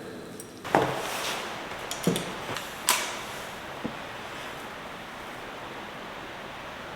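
Steady hiss of heavy rain and wind, with several sharp knocks and clatters in the first four seconds, the loudest near the start.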